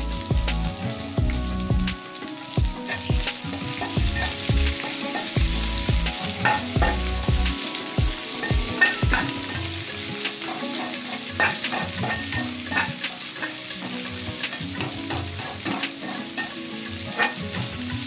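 Sliced onions frying in hot oil with tempering spices in a non-stick kadai: a steady sizzle, with many short clicks and scrapes from a steel spatula stirring against the pan.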